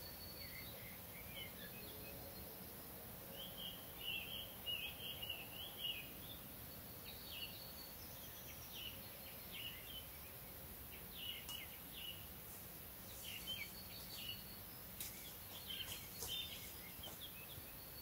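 Wild birds singing and calling in short chirping phrases, the loudest run of song about four to six seconds in, with more scattered phrases later, over a faint steady background hiss.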